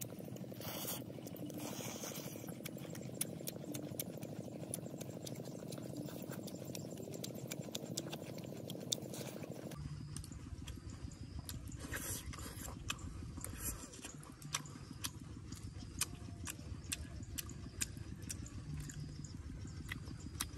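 A man chewing and smacking his lips while eating roasted fish with his fingers: frequent short, wet clicks over a steady outdoor background, which changes abruptly about halfway through.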